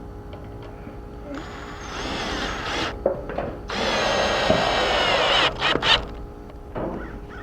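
Power drill running in two bursts, the second longer, its motor pitch sagging a little as it bites into the metal wrap and post.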